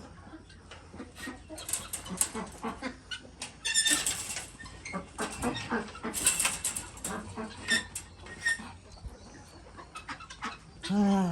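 Chickens and ducks calling and clucking, with many short sharp clicks and brief chirps, as the flock is given a snack of feed.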